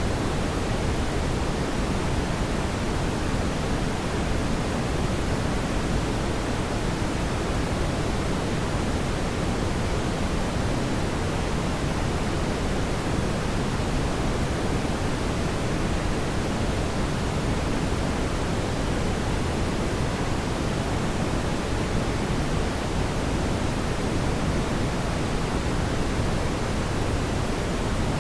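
Fireplace fire giving a steady, even rushing hiss, heaviest in the low end, with no distinct crackles or pops.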